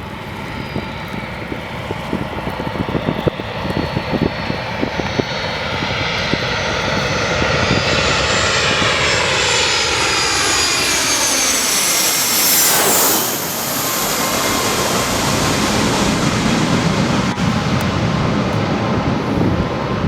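Landing airplane approaching and passing low overhead, its engine whine sweeping down in pitch as it goes by about two-thirds of the way through, then a lower rumble as it moves away.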